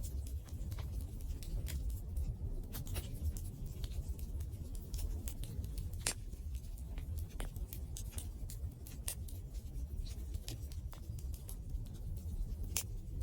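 Wood fire crackling, with irregular sharp snaps several times a second over a steady low rumble. A few louder pops stand out, one about six seconds in and one near the end.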